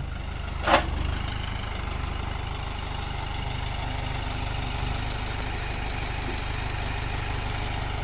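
Tractor engine idling steadily, with one brief high-pitched sound just under a second in.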